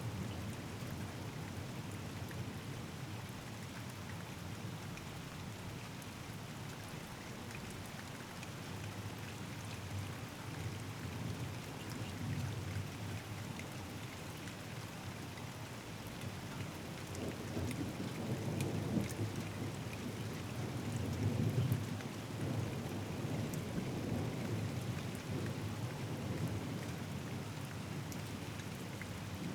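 Thunderstorm: steady rain falling, with low thunder rumbling underneath that swells in the second half and is loudest about two-thirds of the way through.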